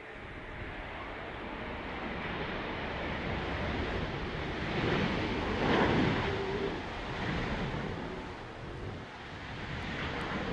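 Jet engine noise of an Airbus A330neo landing in strong gusty wind, a rushing roar that swells to its loudest about halfway through and then eases, with wind buffeting the microphone.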